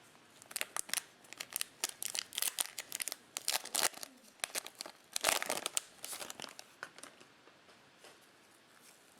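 Foil trading-card pack being torn open and crinkled in the hands, a dense run of crackles that thins out near the end.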